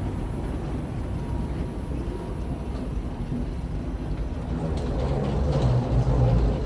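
Steady low rumble of a passenger jet heard from inside the cabin, growing somewhat louder about five seconds in.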